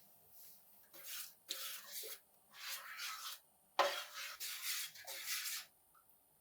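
Hand abrasive work on a metal part of an old Browning pistol: four rubbing strokes of hiss-like scraping, the third opening with a sharp knock a little before the four-second mark.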